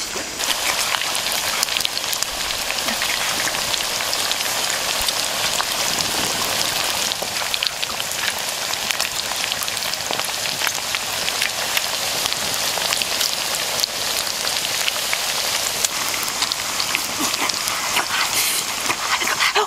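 Pork ribs frying in a wok over a wood fire: a steady sizzling hiss with scattered crackles.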